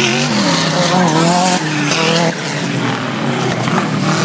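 Off-road 4WD race vehicles' engines revving on a dirt course, their pitch rising and falling as they accelerate and lift off.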